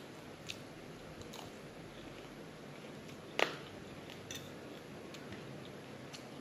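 A person chewing a mouthful of lettuce and avocado salad, faint and close, with scattered small clicks. A metal fork taps the plate once, sharply, about three and a half seconds in.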